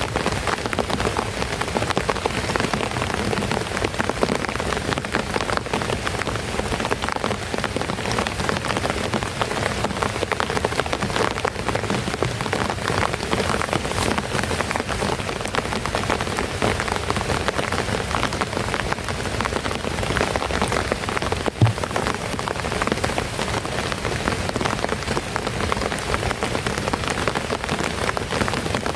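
Heavy rain falling steadily, a dense patter of drops on a surface. A single sharper knock sounds about two-thirds of the way through.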